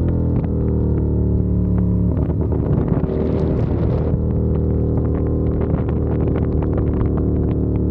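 CFMOTO 450SR's 449 cc parallel-twin engine running under way, its note dipping slightly at the start and then holding mostly steady.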